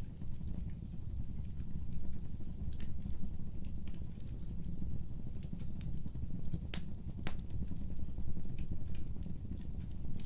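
Fireplace fire crackling: irregular sharp pops and snaps over a steady low rumble of flames, with one louder pop about two-thirds of the way through.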